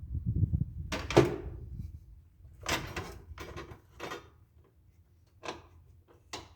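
Irregular knocks and clanks of tools and parts being handled while a lawn tractor is taken apart: a low rumble at the start, one loud knock a little over a second in, then about half a dozen lighter knocks and clicks.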